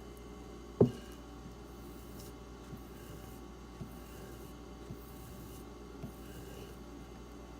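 Knife blade drawn in slow, soft rubbing strokes along a leather strop loaded with diamond paste. There is one louder thump about a second in, and light knocks about once a second after it.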